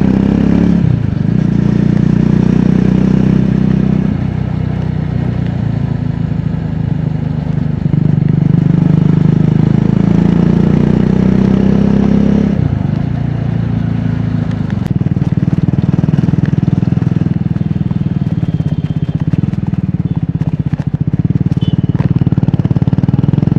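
Triumph Scrambler 400X's single-cylinder engine and exhaust under way. The pitch drops sharply about a second in and again about halfway through as it changes gear, climbing in between, then settles to steady cruising.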